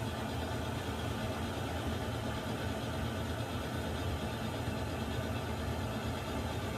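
Water heater running: a steady, unbroken low rumble with an even hiss over it, the same throughout.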